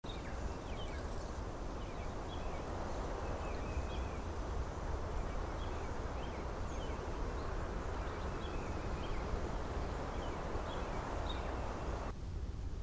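Forest ambience: birds giving short, scattered chirps over a steady rushing noise. The rushing thins out shortly before the end.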